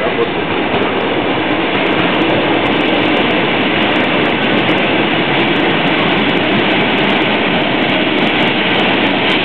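A full-size suburban electric train passing, its wheels running and clattering on the rails in a loud, steady rush of noise.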